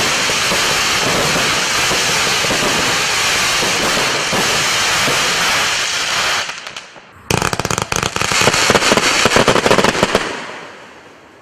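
Wolff Feuerwerk 'Jackhammer' 124-shot fireworks cake firing. A continuous dense hiss and crackle lasts about six seconds and then dies down. About a second later the finale salvo sets off a sudden, loud burst of rapid bangs and crackling, which lasts about three seconds and then fades out.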